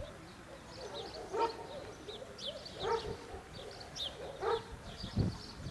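A dog barks three times, about a second and a half apart, with small birds chirping in the background.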